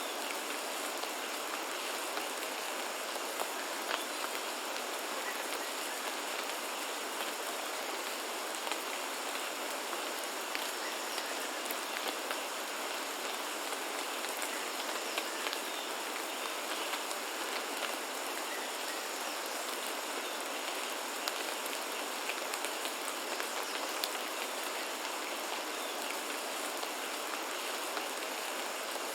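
Steady rain falling in a rainforest: an even hiss with scattered louder drops ticking.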